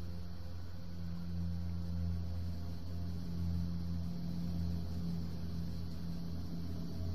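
A low, steady droning hum, the kind of unexplained sound recorded as a "strange sound in the sky", swelling slightly in the middle.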